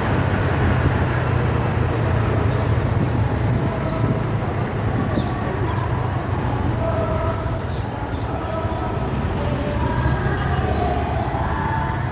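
Steady low rumble and hiss of a running vehicle or road traffic, with short high-pitched tones dotting the second half.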